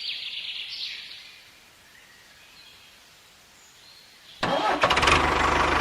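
A few faint bird chirps, then about four seconds in a small engine starts abruptly and keeps running steadily with a fast, even pulse.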